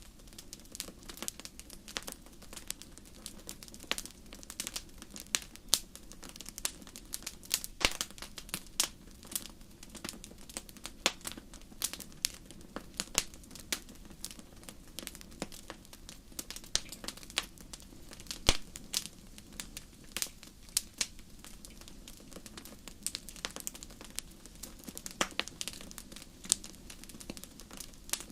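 Wood fire burning in a fireplace, crackling with irregular sharp pops and snaps, a few a second.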